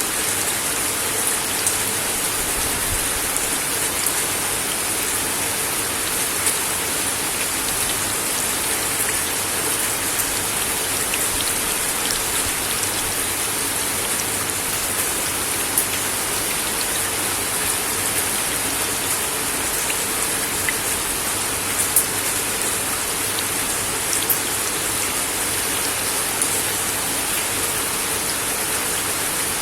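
Steady rain falling on a wooden deck: a dense, even hiss with scattered louder drop ticks.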